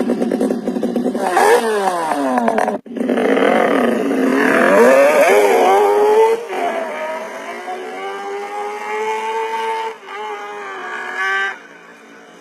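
Two-stroke motorcycle engine revving, its pitch sweeping up and down several times, in short takes that cut off abruptly.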